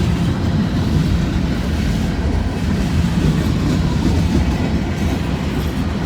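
Freight cars of a long mixed manifest train rolling past, a steady rumble with the wheels clicking over the rail joints.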